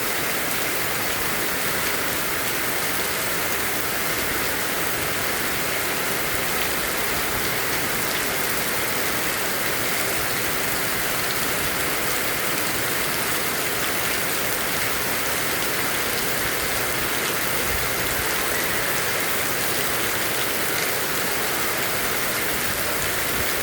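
Heavy rain pouring steadily, a dense even hiss of rain hitting surfaces with faint scattered drop ticks.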